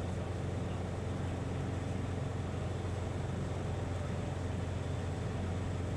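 Steady drone of a Cessna 177RG Cardinal's engine and propeller in flight, heard from inside the cockpit.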